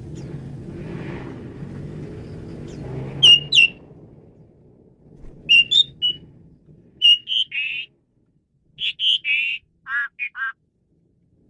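Asian pied starling (jalak suren) singing. Two loud, sharp whistles come about three seconds in, then from about five seconds a run of short whistled and harsh, rasping notes, some falling in pitch. A low background rumble underlies the first few seconds and fades out.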